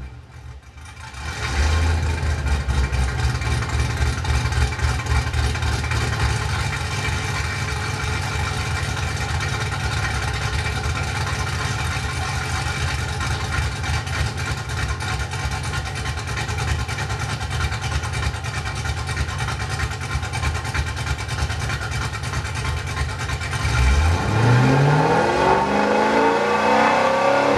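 2008 Ford Mustang with a big camshaft, heard at the exhaust tip: the engine comes in loudly about a second and a half in and idles with a choppy, thumping lope. Near the end it is revved, its note climbing steadily for a few seconds.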